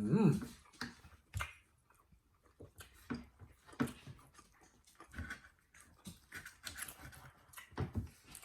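People chewing steak with their mouths close to the microphone: irregular wet smacks and clicks, a few every second.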